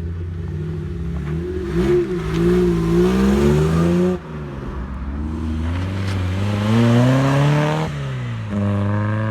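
Car engine revving: its pitch climbs twice and drops off sharply each time, then holds steady near the end.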